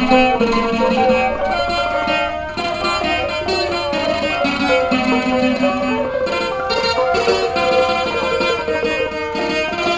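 Thai traditional instrumental music: a melody led by plucked strings, with sustained notes changing continuously.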